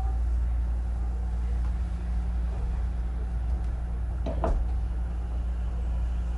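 Inside a Hankyu 9000 series electric train car: a steady low rumble and hum, with a single short clunk about four seconds in.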